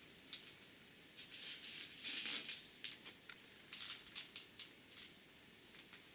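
Tiny beads being sprinkled onto a glued picture, a soft hissing patter with scattered small clicks. It comes in short spells, strongest about two seconds in and again about four seconds in.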